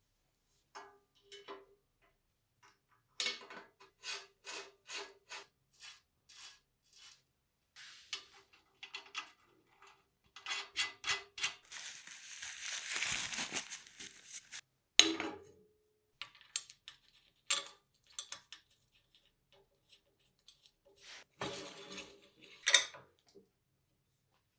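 Small metal parts clinking and tapping against each other and a hard surface in a run of light knocks, many with a short metallic ring. About halfway through comes a hiss lasting two to three seconds, and a few sharp clicks follow.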